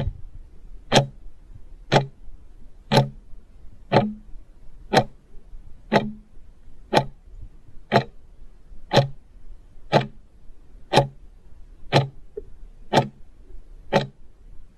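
Clock ticking, a countdown timer sound effect, one sharp tick each second, about fifteen in a row.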